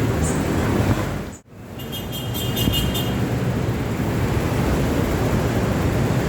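Road traffic noise with wind rumbling on the microphone, heard from a moving bicycle. It drops out sharply for a moment about one and a half seconds in, and a quick run of high-pitched ticks follows for about a second.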